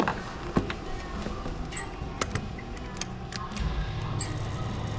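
Honda Super Cub C125's single-cylinder four-stroke engine running at a low, steady idle, with irregular sharp clicks and knocks over it.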